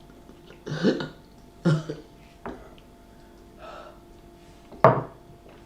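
A man burping several times in short bursts, the sharpest and loudest near the end, after overeating.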